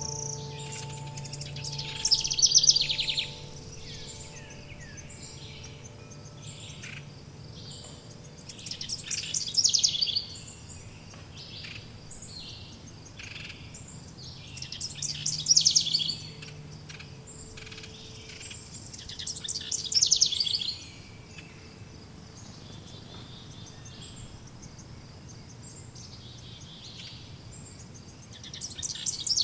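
Forest birds singing. One bird repeats a loud trilled phrase every five or six seconds over the thin, high chirping of others. Faint low wind-chime tones ring near the start and again about halfway.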